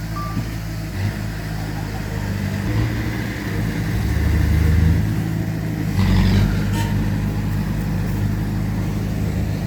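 Heavy diesel engines of a bulldozer and dump truck running, pulling harder around four to five seconds in, with a brief burst of noise about six seconds in. A single short reversing beep sounds right at the start.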